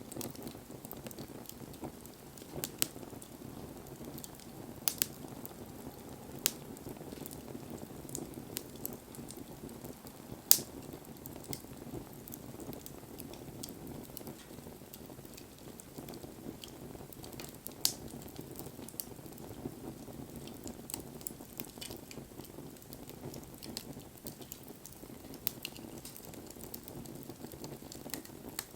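Wood fire burning, with a steady low noise of the flames and scattered sharp crackles and pops from the burning wood. The loudest pop comes about ten seconds in.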